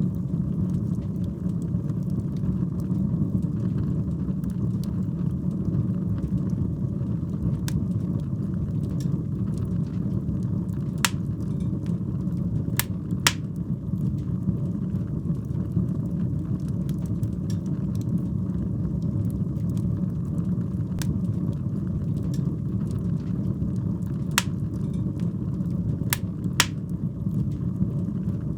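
Wood fire burning in a fireplace: a steady low rumble of flame with scattered sharp crackles and pops, a few of them louder than the rest.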